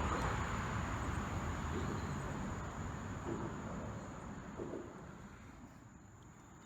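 Insects, likely crickets, keeping up a steady high-pitched drone over a broad rushing noise that fades away across the few seconds.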